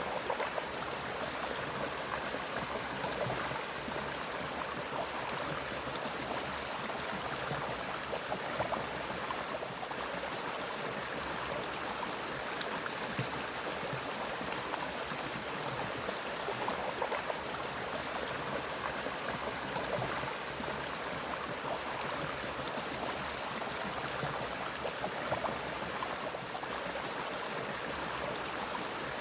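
Forest mountain stream flowing steadily, a continuous rush of water, with a constant high-pitched tone running over it.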